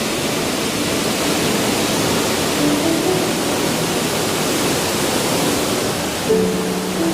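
Vasudhara Falls: a steady rush of falling water.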